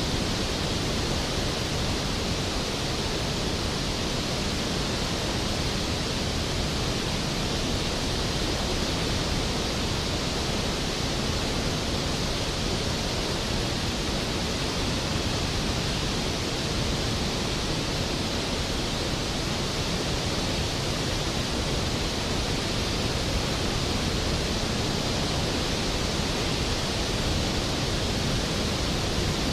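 Skógafoss waterfall's heavy plunge of water, a steady, unbroken rush of falling water.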